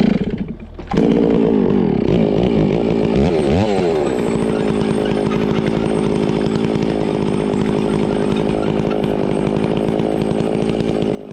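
Chainsaw starting up about a second in, dipping and rising in pitch briefly, then running steadily, likely cutting through a log, until it stops suddenly near the end.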